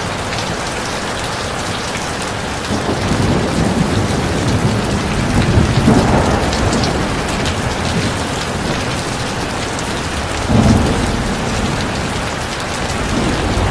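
Heavy rain falling steadily, with low rolls of thunder swelling through the middle and a short, louder rumble about ten seconds in.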